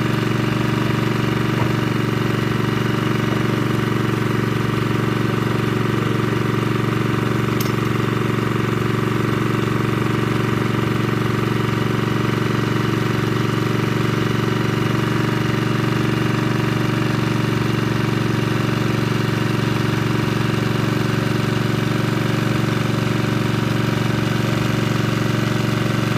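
Engine of a water-well drilling machine running steadily at an even, unchanging speed.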